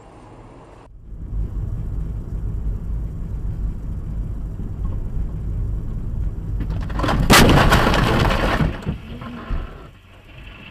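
Low rumble of a car driving. About seven seconds in comes a loud crash with breaking and cracking that lasts about a second and a half, then dies away.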